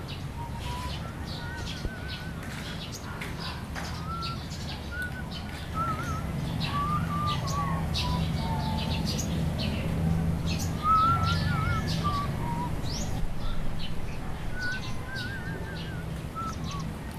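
Many birds chirping and calling, with short warbling trills repeated throughout, over a steady low hum.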